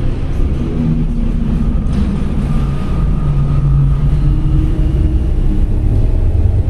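Steady, loud low rumble of vehicles, with faint wavering hum tones over it.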